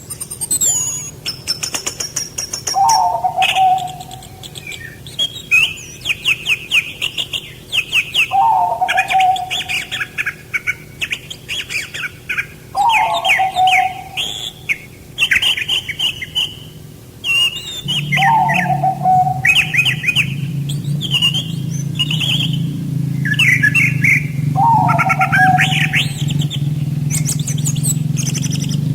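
Several songbirds chirping and singing in quick high phrases, with a lower falling call repeated about every five seconds. A steady low hum runs underneath and grows louder about two-thirds of the way through.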